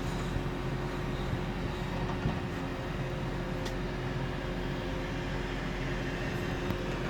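Heavy construction-machinery diesel engine running steadily with an even hum, with a faint click about halfway through.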